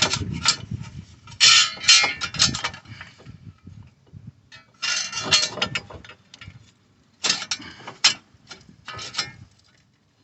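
Metal brake parts clinking and clanking as a front disc brake caliper is fitted over the rotor, in several short bursts of rapid clicks with quiet gaps between them.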